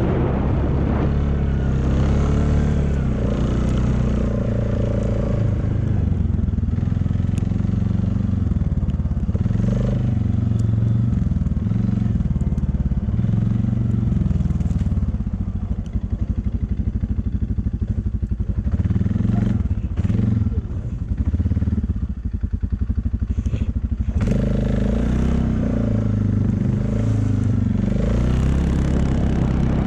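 An engine running, its pitch rising and falling as it speeds up and slows. A stretch of rapid rattling runs through the middle.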